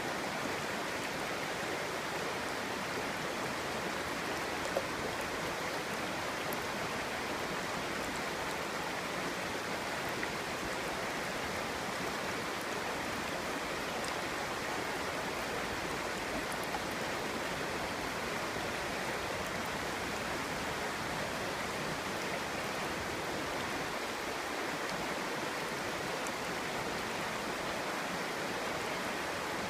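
Clear mountain stream babbling over stones, a steady, unbroken rush of water.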